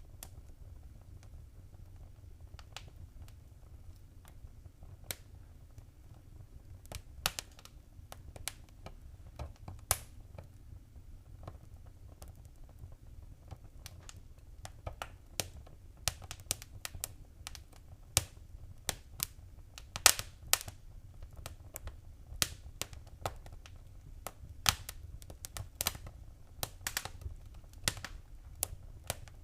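Fireplace fire crackling: irregular sharp pops and snaps over a low steady rumble, sparse at first and coming thicker and louder in the second half.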